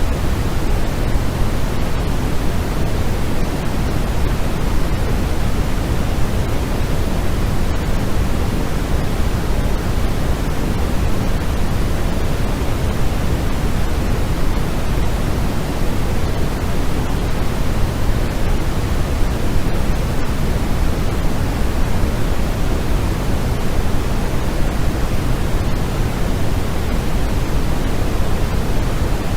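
Continuous sleep noise, the kind sold as white noise: a steady, unchanging rush, fuller in the low end than a bright hiss, like pink noise.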